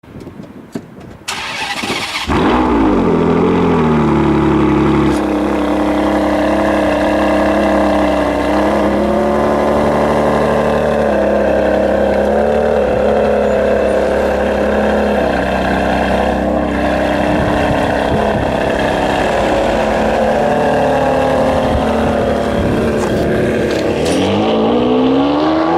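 Ferrari 599 GTB Fiorano's V12 being started: it cranks briefly, catches about two seconds in with a flare that falls away, and settles into a steady idle. Near the end the revs rise again in a short blip.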